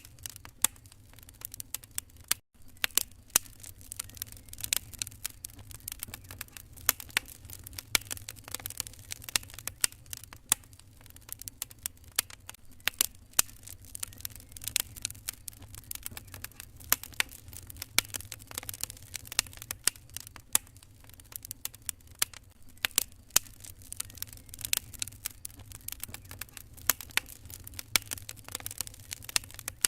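Wood fire crackling in a fireplace: many irregular sharp pops and snaps over a low, steady background.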